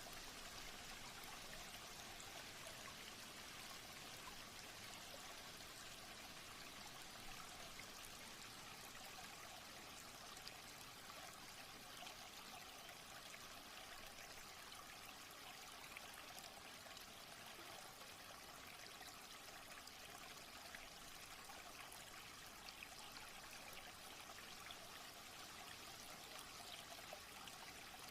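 Faint, steady sound of running water, like a stream trickling and splashing.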